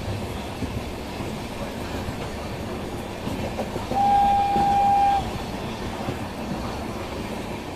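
Passenger train running with a steady rumble, and one steady train horn blast about a second long, about four seconds in.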